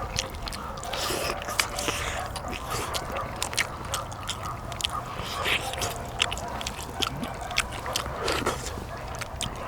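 A person eating gamjatang (pork bone soup), chewing and biting meat off the pork bones, with many small wet clicks and smacks.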